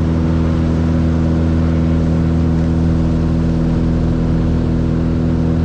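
Cessna 182R's six-cylinder Continental O-470 piston engine and propeller running at a steady speed, a constant low drone with no change in pitch.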